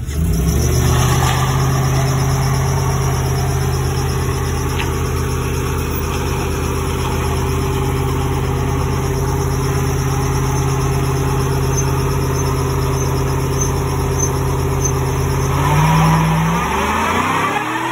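A full-size SUV's V8 engine is held at steady high revs during a burnout, with the rear tyres spinning and smoking. About 16 seconds in, the revs jump briefly and then drop away.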